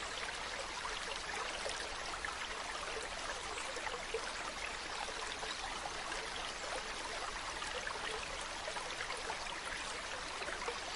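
Mountain stream running steadily: an even rush of flowing water with many small splashes and trickles through it.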